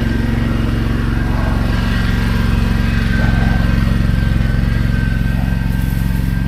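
A small engine runs steadily at constant speed, close by, with a faint high whine above it.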